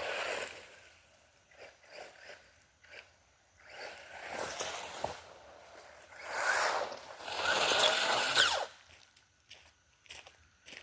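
Electric motor of a Wltoys RC buggy, running on a 3S LiPo, revved in a few short bursts. The pitch rises within the longest burst, about two seconds long, that comes two-thirds of the way through.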